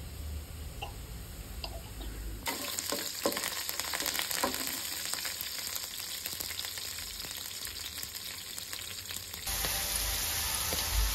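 Crackling sizzle of food frying in a pan, full of small pops, cutting in sharply about two seconds in after a few faint clinks of a fork in a bowl; near the end it changes abruptly to a brighter, steadier hiss.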